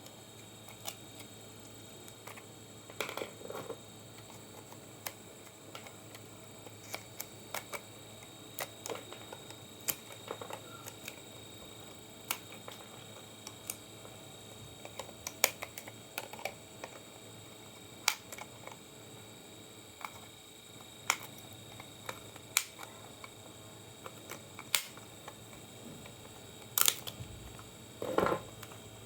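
Irregular sharp clicks and light taps of small hard parts and tools being handled on a workbench, a few every couple of seconds, with a louder cluster of clicks near the end, over a faint steady hiss.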